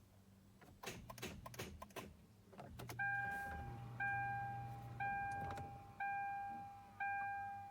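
Hyundai/Kia SUV with a no-start fault: a run of sharp clicks, then a dashboard warning chime that sounds five times, about once a second, each tone fading out before the next.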